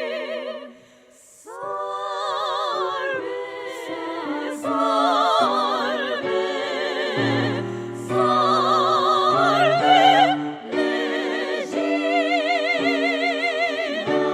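Women's three-part choir sung by a single woman overdubbed on each part, with piano accompaniment: sustained choral chords in a classical style, with strong vibrato. There is a brief breath-like pause about a second in.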